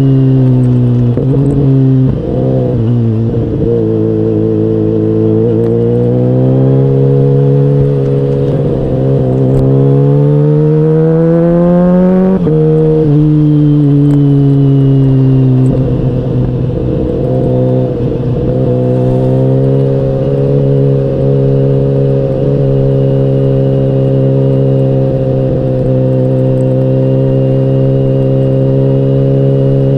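KTM Duke 125's single-cylinder four-stroke engine running under way. Its pitch falls at first, then climbs steadily under acceleration for about six seconds and drops suddenly at an upshift about twelve seconds in, then holds at a nearly steady cruising pitch.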